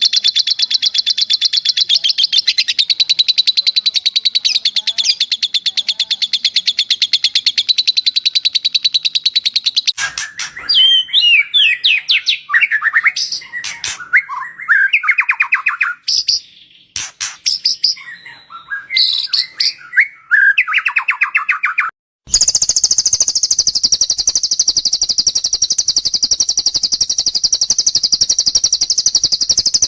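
Spliced recordings of cage songbirds: first a very fast, high chirping trill, then about ten seconds of varied whistled song phrases with short gaps, then an abrupt cut to a dense, shrill, high-pitched chatter.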